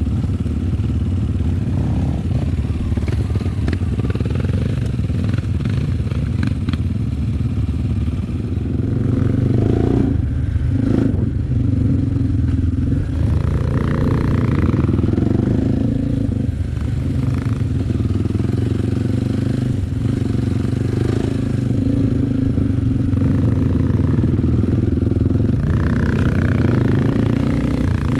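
Enduro dirt-bike engine running steadily, its pitch shifting a little, with a few short knocks in the first seconds.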